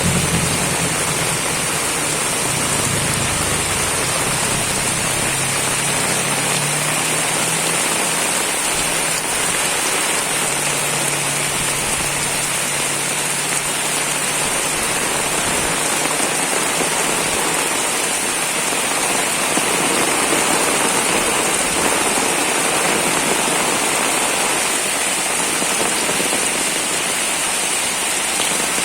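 Heavy rain pouring steadily, an even hiss with no letup. A low rumble fades away in the first couple of seconds.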